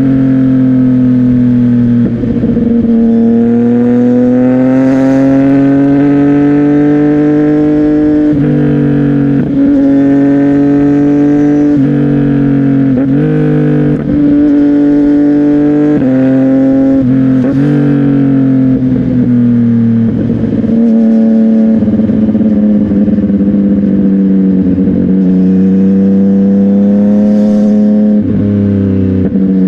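CFMOTO 675NK's three-cylinder engine through an aftermarket Burnout titanium exhaust, loud and on the move. Its pitch climbs and falls with the throttle, breaking briefly at each gear change, and settles lower and steadier for the last third.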